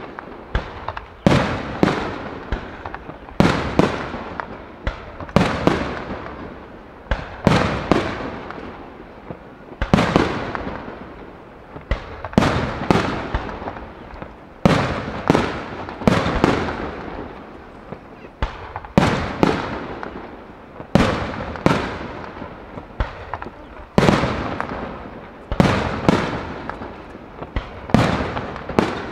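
Aerial firework shells bursting in a steady barrage, a sharp bang every half second to two seconds, many in quick pairs, each trailing off in an echo.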